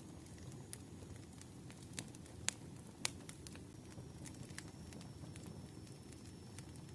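Firewood burning: a low steady rush with scattered crackles and sharp pops. Two pops stand out, about two and a half and three seconds in.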